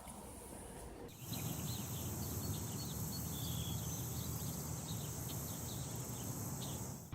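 Outdoor ambience of insects droning steadily with many short bird chirps over it. It starts abruptly about a second in and stops suddenly near the end.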